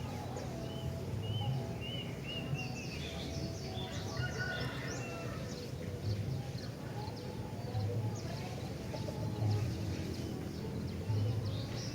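Sooty-headed bulbul (kutilang) singing in short bursts of chirped and whistled notes, most of them in the first half and again near the end, over a steady low hum and background noise.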